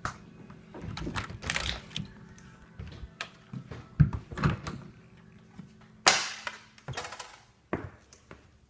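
Irregular clicks and knocks, with a louder thump about six seconds in.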